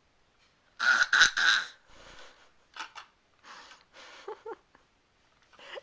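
A baby's excited breathy huffs and pants. A loud cluster comes about a second in, then softer puffs, with a couple of short voiced grunts near the end.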